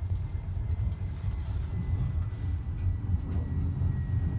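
TriMet MAX light-rail car running between stops, heard from inside the car: a steady low rumble with a faint thin high whine that drifts slightly lower in pitch.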